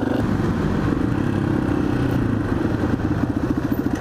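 Motorcycle engine running steadily, its beat turning into a rapid, even pulsing near the end.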